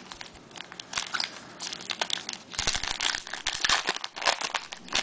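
Trading card pack wrapper crinkling as it is handled and pulled open, a dense run of sharp crackles that grows louder in the second half.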